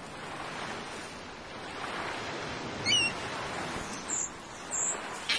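Birds calling over a steady wash of sea-and-air ambience: a quick run of high, falling chirps about three seconds in, then two short high calls near the end.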